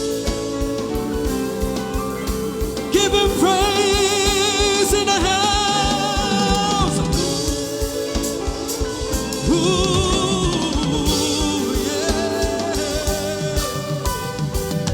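Live gospel band music: a drum kit keeps a steady beat under sustained chords, and a singer holds long wavering notes from about three seconds in and again near ten seconds.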